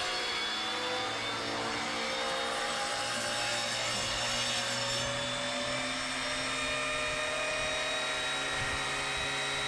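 Electric tile saw running steadily under load while cutting tile, its motor whine sagging slowly in pitch.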